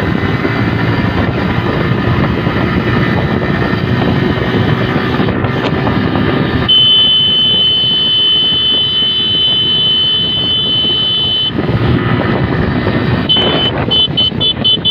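Suzuki Gixxer SF motorcycle being ridden on the road, its engine running under heavy wind noise on the microphone. Partway through, a steady high-pitched tone sounds for about five seconds, and near the end the same tone repeats as quick beeps.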